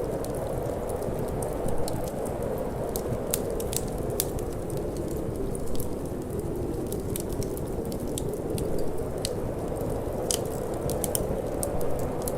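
Wood fire in a fireplace crackling, with many irregular sharp pops and snaps, over a steady low rush of wind.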